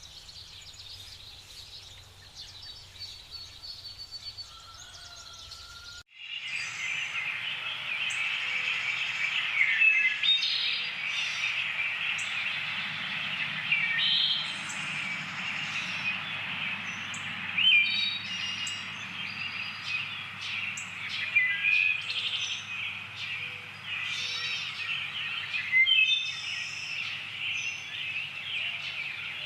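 Forest birds chirping and calling. About six seconds in, the sound cuts abruptly from a quieter stretch of sparse calls over a low hum to a much louder, dense chorus of many birds calling at once.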